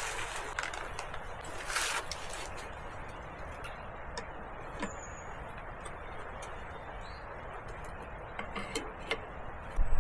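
Wood campfire burning, with a steady low hiss and scattered sharp crackles and pops, a few of them close together near the end.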